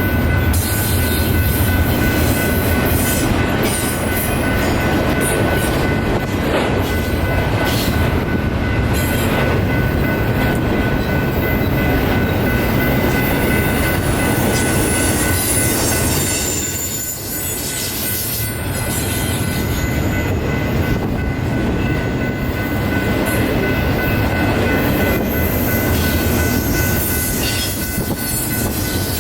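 A train rolling past close by: a loud, steady rumble of wheels on rail with scattered clacks, and a steady high-pitched tone held over it. The sound dips briefly about two-thirds of the way through, then carries on.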